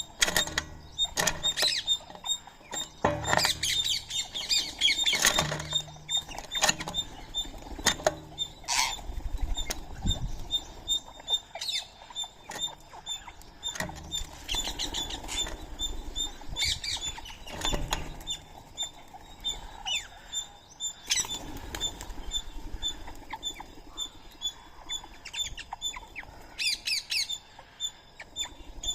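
Birds chirping and calling over and over in short, quick notes, with scattered sharp clicks among them.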